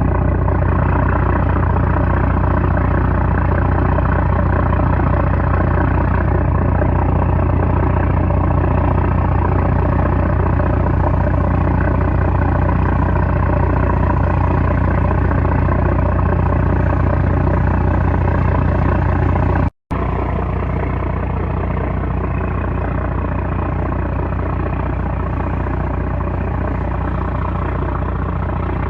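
The trawler's 330-horsepower engine running steadily with a loud, deep drone. About two-thirds of the way through the sound drops out for an instant, then carries on slightly quieter.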